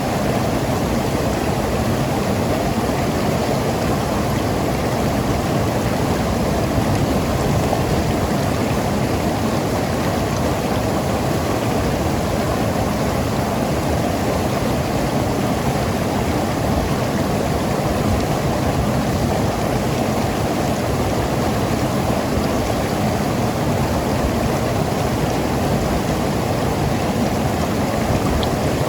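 Mountain river rushing and gurgling over rocks in a steady flow.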